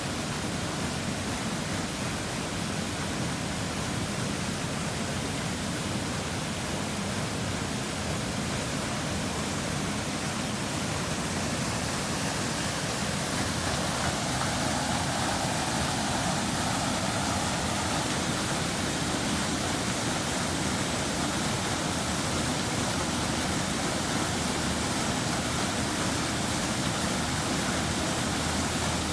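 Waterfall, a steady rush of falling water, growing slightly louder and brighter about halfway through.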